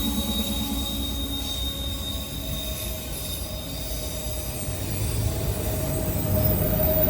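Norfolk Southern freight train rolling past with a steady low rumble and a thin, high, steady wheel squeal; it grows louder near the end.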